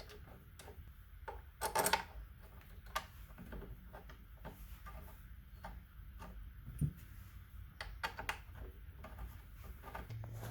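Scattered light clicks and taps of hand tools and metal parts as the front brake caliper's mounting bolts are threaded back in, with a louder cluster of knocks about two seconds in.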